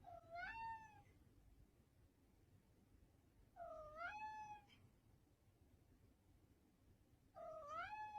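Domestic cat meowing faintly three times, a few seconds apart, each meow a short call that dips and then rises in pitch.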